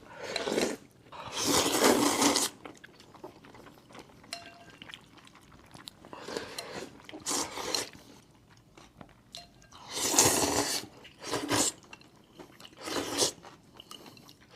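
A person eating noodles close to the microphone: chewing, with about six loud, noisy mouthfuls of a second or less, spaced a few seconds apart.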